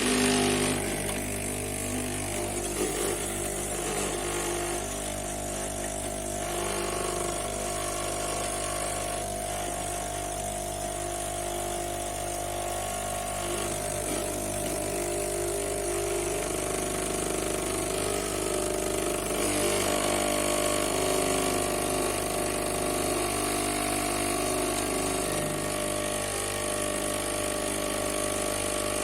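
The vibratory pump of a De'Longhi Vintage Icona espresso machine switching on suddenly and running with a steady buzzing hum and a hiss.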